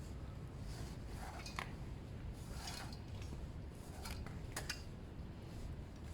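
A few short, scratchy rubbing strokes of a wrap being pulled through and drawn tight by hand, over a steady low hum.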